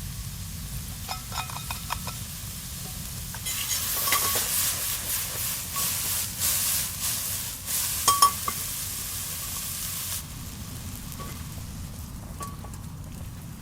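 Food frying in an iron frying pan over a wood fire. A loud sizzle starts about three and a half seconds in and dies back near ten seconds, with a few sharp metal clinks of a utensil against the pan, one loud clink just after eight seconds.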